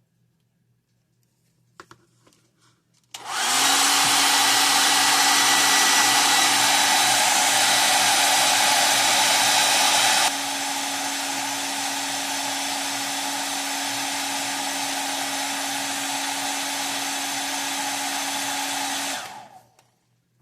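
Electric hot-air blower switched on about three seconds in, running with a steady rushing hiss and a low hum. About seven seconds later it drops to a quieter setting, and near the end it is switched off and winds down.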